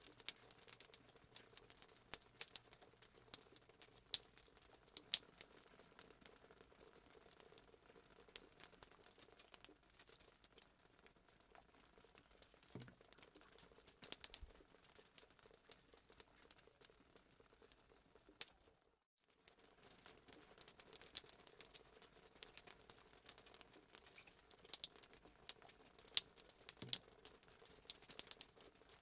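Fireplace sound effect: a wood fire crackling with dense, irregular small pops. It cuts out for a moment about two-thirds of the way in.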